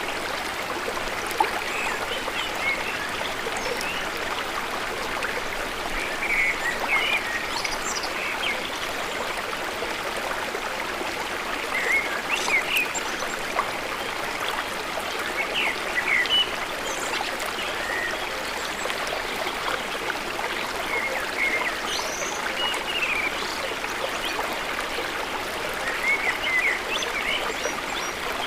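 Steady trickle of running water, with short high chirping calls scattered through it.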